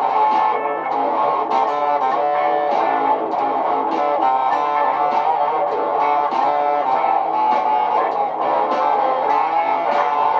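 Looped electric guitar music: guitar parts playing without a break, with many closely spaced picked notes over a steady, dense layer.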